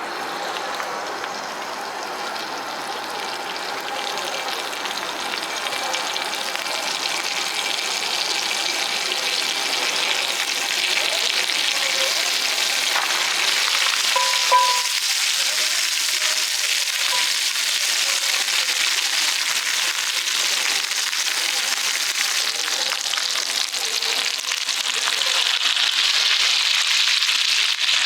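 Sirloin steak sizzling over an oak wood fire: a steady frying hiss that grows slightly louder towards the end, with one short, sharp sound about halfway through.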